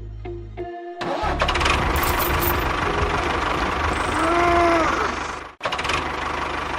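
Music for about the first second, then a mini tractor's small engine running steadily with a low, even pulse. A short rising-then-falling tone sounds about four seconds in, and the sound cuts out briefly just before the end.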